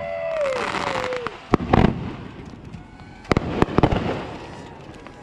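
Firework mortar shells launching from tubes right beside the microphone: sharp bangs, two around a second and a half in and a cluster of four between three and four seconds in, over hiss and crackle. A held whistling tone slides down and fades about a second in.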